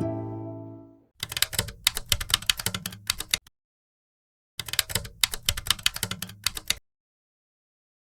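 Soft background music fades out, then two runs of rapid typing keystrokes, each about two seconds long, with a second of dead silence between them.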